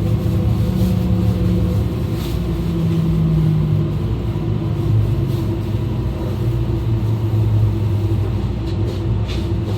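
E2 series Shinkansen running at speed, heard from the vestibule: a steady rumble with low, steady hum tones that shift slightly in pitch partway through, and a few faint clicks near the end.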